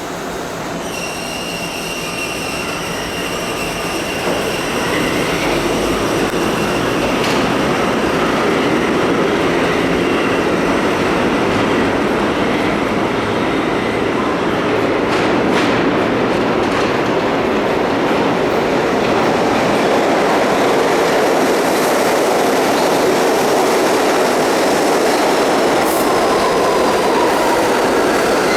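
Vintage R1–R9 'Arnine' subway cars rolling through the station, wheels clacking over the rail joints with some squeal. The noise builds over the first several seconds and then holds steady and loud, with a thin high whine early on that fades.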